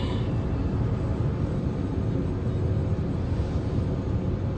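Steady low rumbling noise with no clear pitch.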